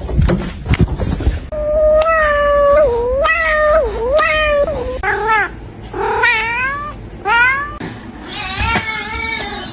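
A cat meowing about seven times in a row, long calls that bend up and down in pitch. A few sharp knocks come in the first second or so, before the first call.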